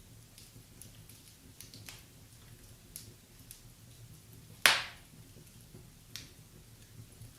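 Wood fire burning in a fireplace, crackling with scattered small snaps and one loud pop a little past halfway.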